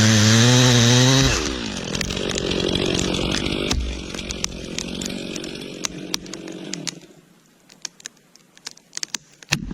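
Chainsaw engine running at speed, then letting off about a second and a half in and running on more roughly as it fades. Near the end the saw has died away and only scattered sharp clicks are heard.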